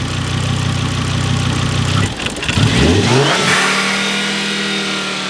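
Turbocharged Volvo engine idling, then blipped about two seconds in: the revs rise quickly and hang high instead of dropping back. The engine is stuck wide open, which the owner puts down to a vacuum leak at a worn-out throttle body gasket.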